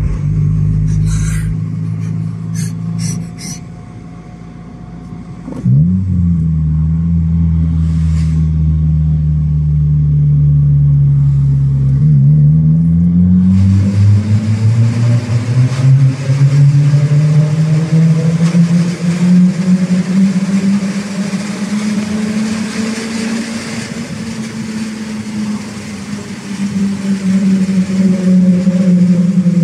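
Honda Civic's four-cylinder engine heard from inside the cabin, breathing through a swapped EK3 intake bridge and airbox and exiting through an SRS aftermarket muffler. The engine note dips briefly about six seconds in, then climbs steadily under acceleration from about twelve seconds. It eases off and rises again near the end, with louder road and tunnel noise once the car enters the tunnel.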